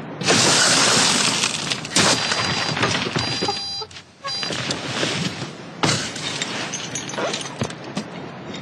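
A loud noisy clash of crashes and knocks, like breaking and struggling, with short steady electronic beeping tones in the middle.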